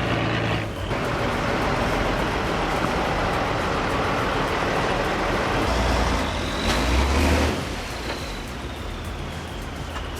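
Heavy off-road truck engines running under load, several short clips joined together, so the engine sound changes abruptly a few times.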